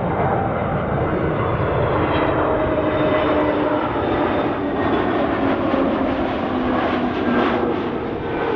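Airbus A320neo jet airliner on landing approach, its engines giving a loud steady rush with whining tones that slowly fall in pitch as it passes.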